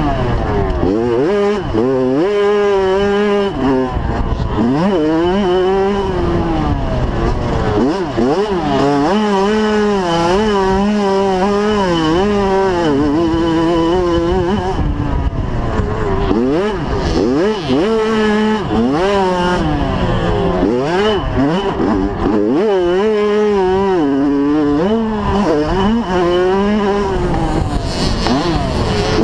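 85cc two-stroke motocross bike engine racing around the track. It revs up high, drops off, and climbs again every second or two as the rider accelerates, shifts and backs off for jumps and corners.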